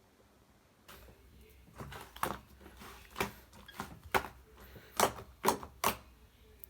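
Slime mixed with clay being kneaded by hand, giving a string of sharp pops and clicks with softer squishing between them, the loudest pops about five to six seconds in.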